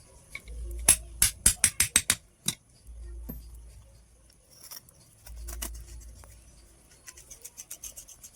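Small metal-on-metal taps in blacksmith work: a quick run of about seven sharp clicks in the first couple of seconds, a few single clicks after, and a fainter, faster run of light ticks near the end.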